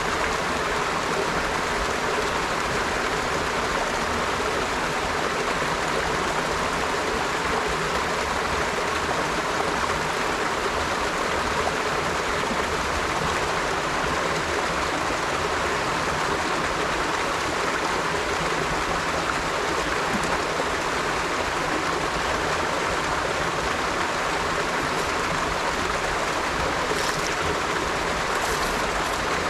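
River water flowing in a steady, continuous rush, with faint higher trickles and splashes near the end.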